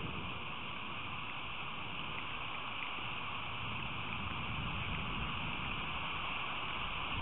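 Steady rain falling, an even hiss, with an irregular low rumble underneath.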